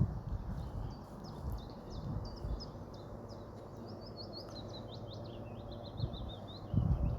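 A small songbird singing a quick, twittering run of high chirping notes. A few low dull thumps, the loudest near the end, sound beneath it.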